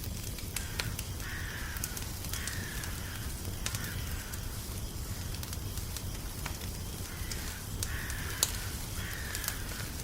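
Wood fire crackling with frequent sharp pops over a low steady rumble, while a crow caws in two runs of three or four harsh calls, the first run about a second in and the second just past the middle.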